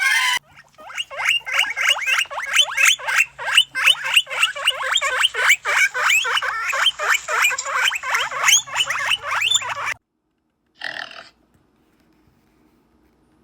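An animal squealing in a rapid run of short, high-pitched calls, several a second, which stops abruptly about ten seconds in; a brief squeal follows a second later.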